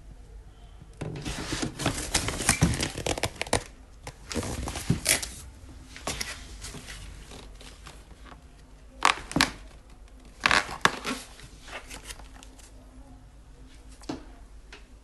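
Handling noises: crinkling and rustling in several bursts, with a single knock near the end.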